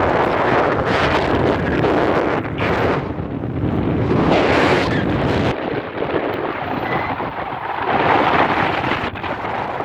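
Strong wind buffeting the microphone at sea, surging and easing in gusts.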